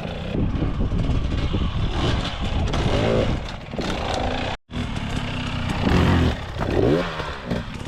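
Dirt bike engine revving in repeated surges, its pitch rising and falling as the throttle is blipped to get the bike over logs. The sound drops out for an instant about halfway through.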